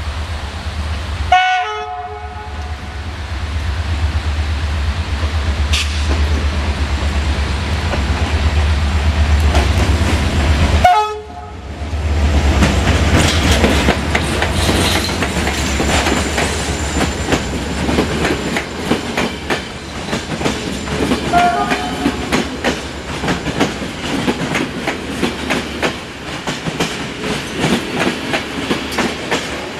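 Diesel locomotive hauling a passenger train, running with a deep steady engine rumble and sounding its horn about a second in and again about eleven seconds in. Then the passenger coaches roll past with rapid clicking of wheels over rail joints, and there is one more short horn note partway through.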